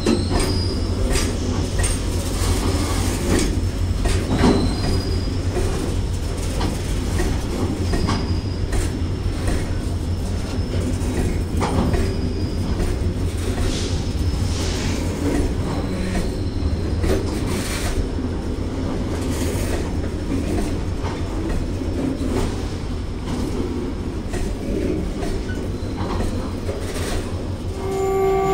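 Freight train of covered hopper wagons rolling past: a steady low rumble of steel wheels on rail, with irregular clicks and clanks as the wheels cross rail joints, and brief high wheel squeals now and then.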